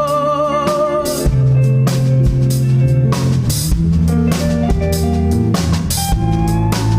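Live band playing an instrumental passage of a slow song: electric guitars, bass guitar and drum kit, with a held wavering note dying away about a second in.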